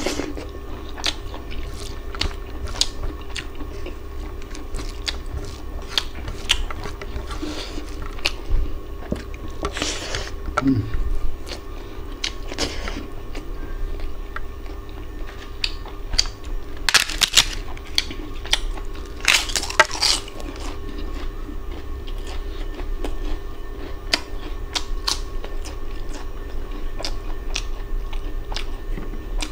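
Close-miked eating by hand: a person chewing rice and mutton curry, with frequent wet clicks and smacks and a few louder crunchy bursts, over a steady low hum.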